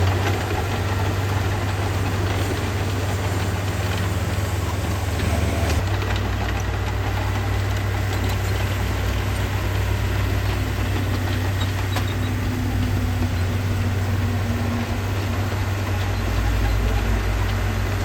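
Heavy-machinery diesel engine running steadily with a low drone, its pitch shifting slightly about six seconds in and again near the end.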